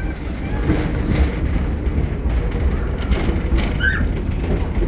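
Passenger car of a steam train rolling along the track, heard from aboard: a steady low rumble with wheel clatter, and a brief high squeak about four seconds in.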